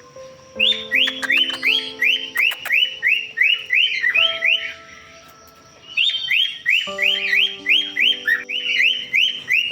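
Cockatiels chirping: quick rising chirps, about three a second, in two long runs, over background music of held low notes.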